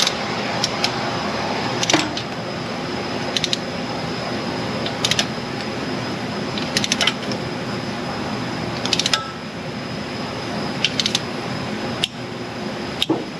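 Hand ratchet clicking in short bursts of a few quick clicks every second or two, over a steady background hum.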